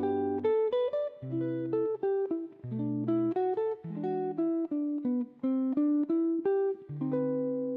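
Background music: a plucked guitar melody with changing bass notes.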